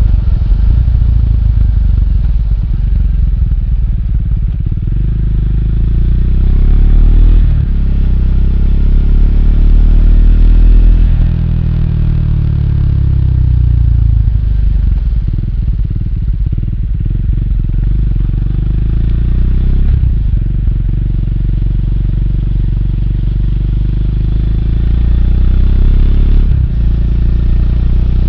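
Triumph Speed 400's single-cylinder engine under way, rising in pitch as it accelerates through the gears, with short breaks at the shifts, then falling as it eases off and slows.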